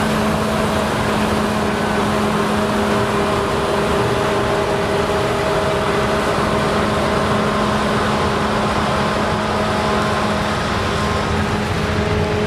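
Claas Lexion combine harvester running steadily while harvesting rye: a loud, unchanging mechanical drone with several steady humming tones over it.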